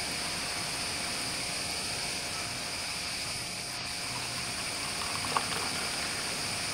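Steady rushing of a nearby stream, with a steady high-pitched hiss over it and one short tap about five seconds in.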